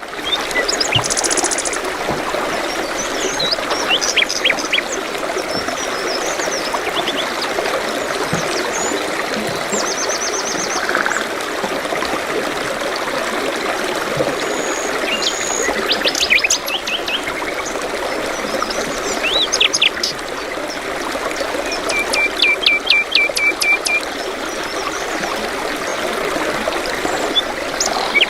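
Running water, like a stream, flowing steadily, with birds chirping and giving quick trills over it at intervals.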